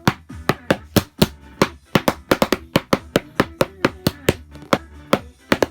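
Percussion cover of a pop song: sharp, dry hits in a quick, syncopated rhythm, about three to five a second, over faint pitched backing music.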